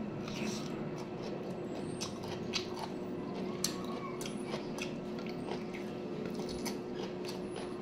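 A person chewing a mouthful of sautéed cabbage and corn rice, with irregular wet smacks and clicks from the mouth.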